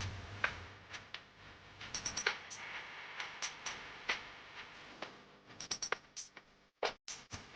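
Irregular light clinks and knocks of kitchen utensils against cookware, several a second at times, with faint music.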